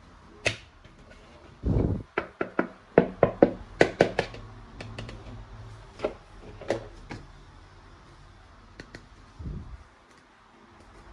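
Hard plastic toy parts being handled: a dull thud, then a quick run of sharp clicks and knocks, a few more clicks, and another thud near the end.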